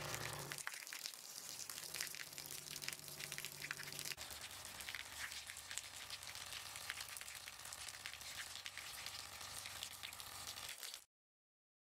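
A thin stream of running water splashing down as a dense crackling patter of droplets, with a faint low hum under it for the first few seconds. It cuts off suddenly about eleven seconds in.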